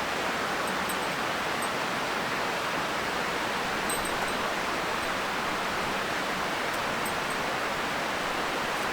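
Steady, even outdoor rushing noise with no change in level, and a few faint ticks near the start and middle.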